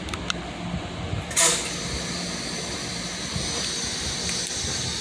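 NJ Transit Comet commuter train standing at a platform, its equipment humming steadily. About a second and a half in comes a short, loud burst of compressed-air hiss from the train's air system, followed by a faint steady high whine.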